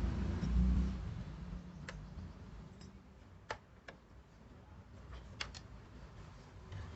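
A handful of sharp, separate clicks and light taps, two of them in quick succession a little after halfway. A low rumble of handling noise sits under the first second.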